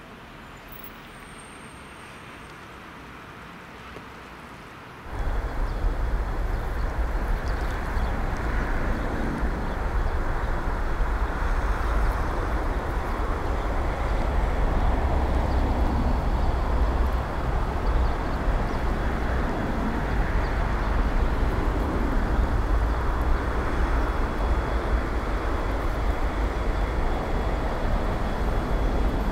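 Quiet outdoor ambience, then about five seconds in a loud, steady low rumble starts abruptly and holds: a train approaching along the track.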